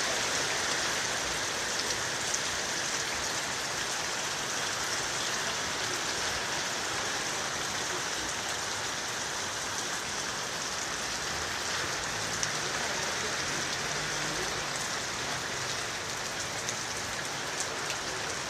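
Steady rainfall, an even hiss of rain with scattered drops ticking on a surface.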